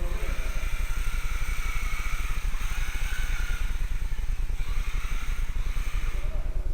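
Whine of a 1/16-scale electric four-wheel-drive RC rally car's motor and drivetrain, rising and falling in pitch as the throttle changes, over a steady low rumble.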